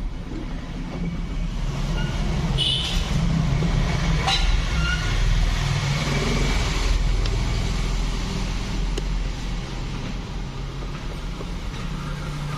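A motor vehicle's engine running, swelling louder for a few seconds in the middle, with a few light clicks over it.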